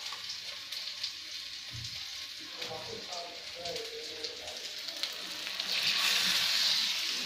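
Rice-flour-battered potato and banana pieces frying on a hot flat iron pan (tawa), a steady sizzle that swells louder about six seconds in.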